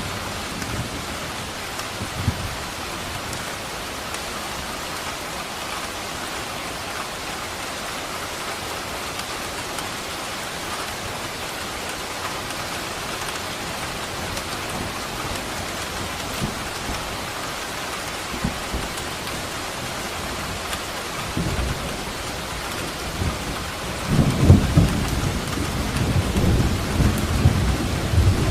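Steady heavy rain hissing, with a low rumble of thunder building about three-quarters of the way through and rolling loudly near the end.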